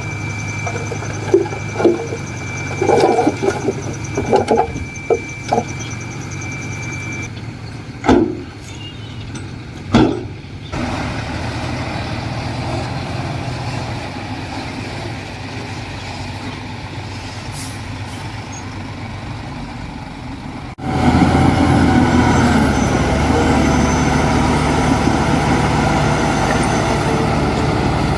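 Heavy earthmoving machinery running, with a steady engine drone and a series of sharp knocks and clanks in the first ten seconds. The sound changes abruptly at cuts, and the engine noise is louder from about two-thirds of the way through.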